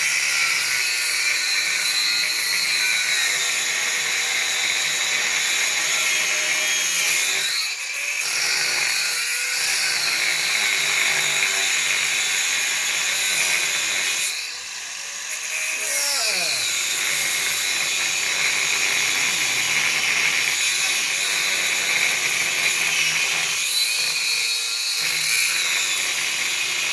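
Angle grinder with a thin cut-off disc cutting steel, running steadily with a high-pitched whine. It breaks off briefly a few times, and about halfway through it winds down and starts up again.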